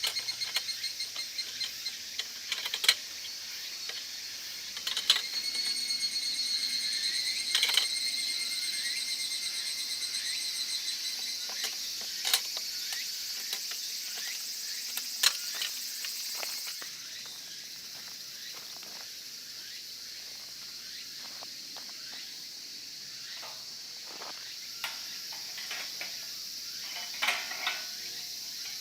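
Insects chirring in a steady high-pitched drone with a fast pulse, dropping away a little past halfway, over scattered clicks and knocks.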